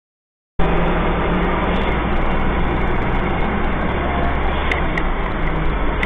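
Steady engine and road noise of a moving vehicle picked up by a dashcam's microphone, starting abruptly about half a second in and running evenly with a low hum.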